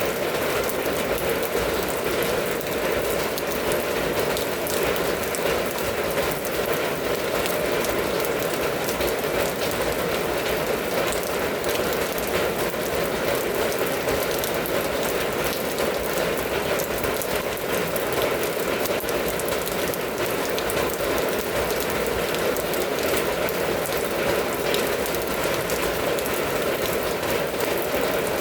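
Steady rain falling: an even, unbroken hiss with many small drop ticks running through it.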